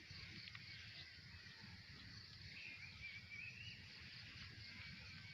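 Faint outdoor background: a steady high hiss of insects, with a faint warbling bird call from about two and a half to nearly four seconds in.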